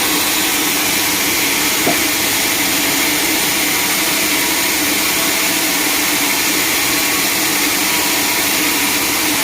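Steady drone of sawmill machinery running, an even hiss with a constant hum under it, broken only by a small tick about two seconds in.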